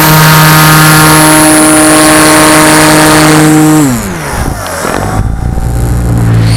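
Cessna 170's piston engine and propeller running steadily at cruise power. Almost four seconds in, the throttle is pulled back and the engine note drops quickly to a lower, quieter running tone.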